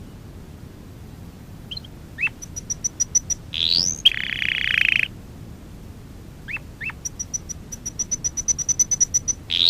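Domestic canary singing in separate phrases: a few short chirps, quick trills of high repeated notes, rising whistled sweeps and a buzzing roll about four seconds in, with a longer trill that speeds up near the end.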